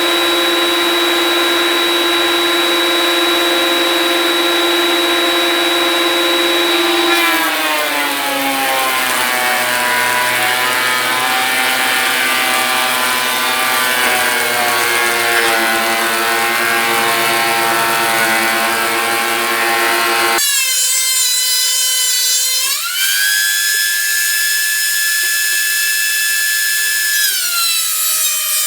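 Electric thickness planer running with a steady high motor whine. About a quarter of the way in, the pitch drops and wavers as a 2x6 board is fed through and the cutterhead takes the load. Later the pitch rises again as it runs free, then drops once more near the end.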